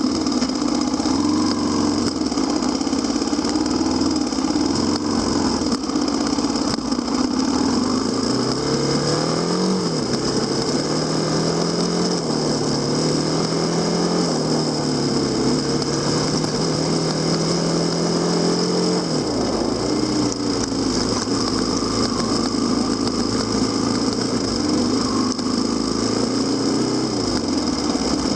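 Kawasaki KLX250SR's single-cylinder four-stroke engine running while the motorcycle is ridden. The engine note climbs about a third of the way in, holds higher for around ten seconds, then drops back to a lower steady pace.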